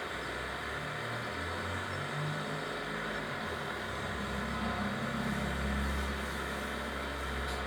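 An engine running steadily under a constant hiss, its low hum growing deeper and louder from about halfway through.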